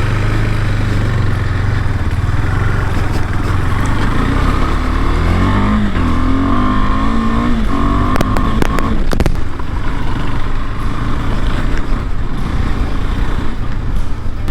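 KTM 390 Adventure's single-cylinder engine running as the bike is ridden, its revs rising and falling about halfway through, with a few sharp clicks.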